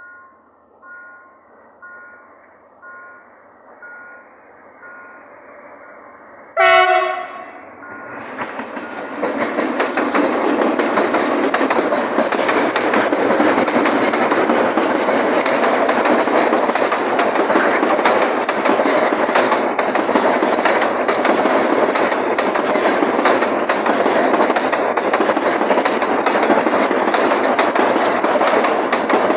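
A two-tone chime rings about once a second, then a CRRC CDD6A1 diesel locomotive gives one short, loud horn blast as a greeting. The freight train of mostly empty wagons then passes close by with steady, loud running noise and wheel clatter.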